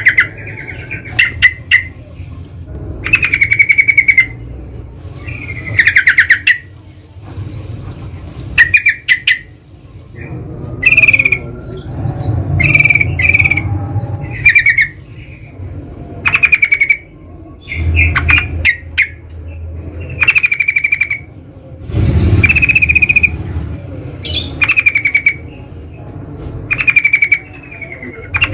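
Yellow-vented bulbuls (trucukan) calling: short, bubbly chattering phrases of rapid notes, repeated every second or two.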